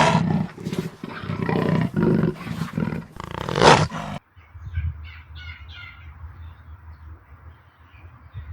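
A large animal roaring and growling in loud, low, repeated pulses, which cut off abruptly about four seconds in. A quieter low hum follows, with faint high chirps.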